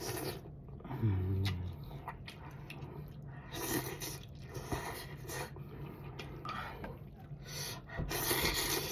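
Close-up eating sounds of a bowl of pho: chewing and slurping in a string of short noisy bursts, with a brief hum of voice about a second in.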